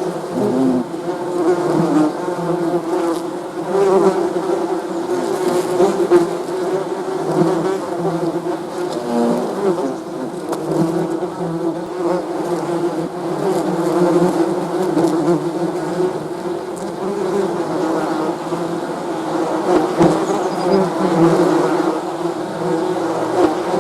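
A swarm of bees buzzing continuously, many overlapping wingbeat tones wavering together into a steady, dense hum.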